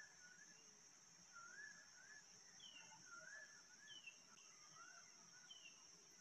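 Faint bird calls: a wavy two-note phrase repeated about every one and a half seconds, with a short falling higher note between, over a steady high hiss.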